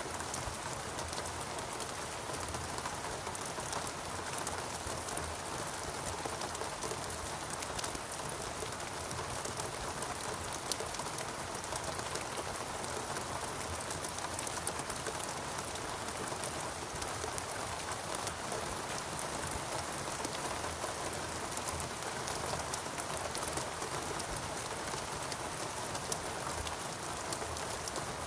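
Steady rain falling on foliage in a rainforest, a dense even hiss with many individual drop patters.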